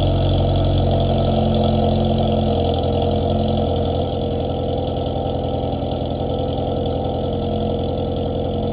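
Honda Civic's R18 four-cylinder engine running steadily with freshly installed rod bearings; its speed settles a little lower about four seconds in.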